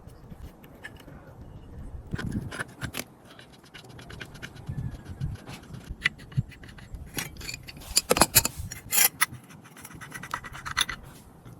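Hand scraping and clicking of small parts being worked on, with a cluster of sharp clicks and knocks about eight seconds in.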